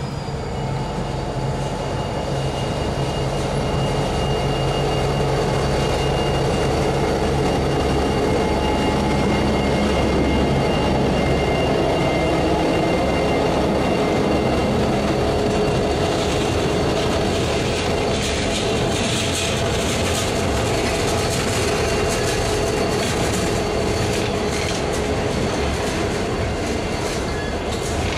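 Freight train moving: a steady low engine drone with cars rolling and a thin, high wheel squeal. From about halfway through, the wheels click more and more densely over the rail joints.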